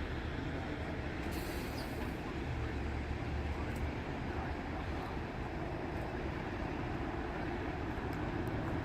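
Heavy vehicle engine running steadily with a low rumble, with a short hiss about a second and a half in.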